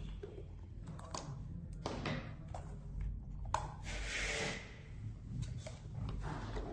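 Handling noise from taking apart a robot vacuum's brush and motor: scattered sharp clicks and knocks of plastic parts, with a short rustle about four seconds in.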